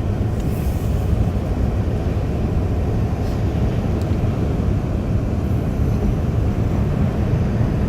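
Steady low rumble of a car being driven, heard from inside the cabin: engine, tyre and wind noise blended together.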